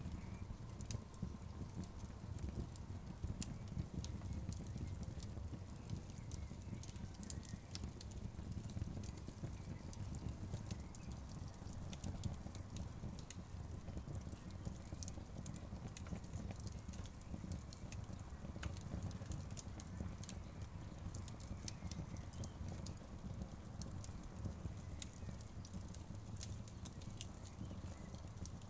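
Burning logs crackling, with frequent sharp snaps and pops over a steady low rumble.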